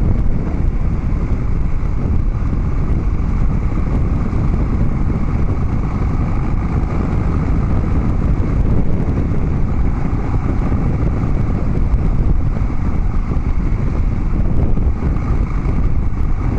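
Harley-Davidson Dyna Street Bob V-twin running steadily through Vance & Hines Big Radius 2-into-2 exhaust pipes, with a deep, unbroken exhaust note.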